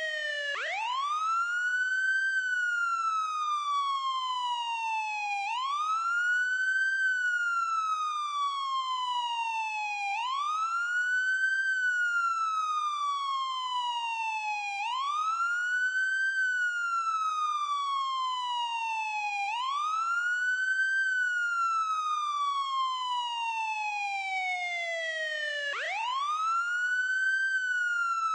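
Ambulance siren sounding a steady wail: the pitch rises quickly, then falls more slowly, and the cycle repeats about every five seconds.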